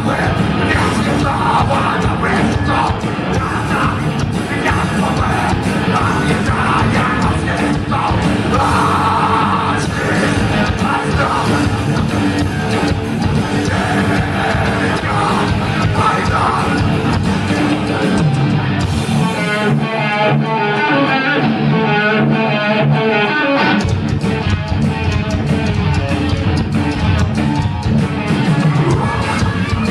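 Thrash metal band playing loud: distorted electric guitars, bass and drums with shouted vocals. About 19 seconds in, the drums and bass drop out for about five seconds, leaving a guitar riff, before the full band comes back in.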